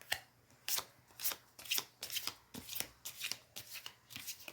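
A deck of oracle cards being shuffled by hand: a run of short, papery card strokes, about two or three a second.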